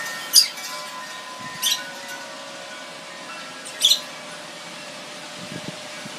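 Wind chimes ringing in gusty wind, several long tones fading slowly. Three short, sharp high-pitched sounds come about half a second, a second and a half, and four seconds in.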